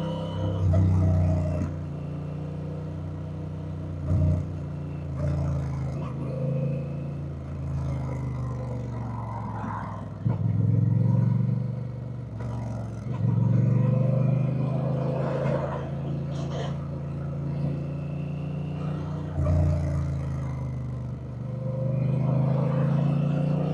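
Honda Rebel 1100's 1084 cc parallel-twin engine running under way, its revs climbing and dropping several times as the throttle opens and closes.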